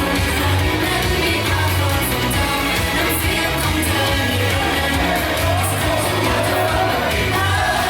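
Pop song with sung vocals over a steady bass beat, played live over a sound system.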